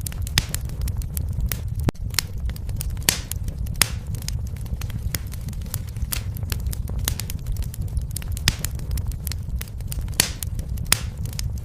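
Wood fire crackling in a fireplace: irregular sharp pops and snaps of burning wood over a steady low rumble of the flames.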